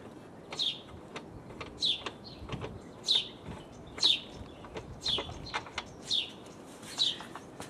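A bird calling with a short, high, down-slurred chirp repeated about once a second, over a few faint knocks.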